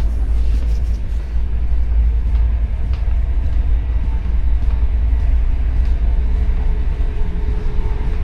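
Moving train heard from inside a carriage: a steady, loud low rumble of the wheels on the rails.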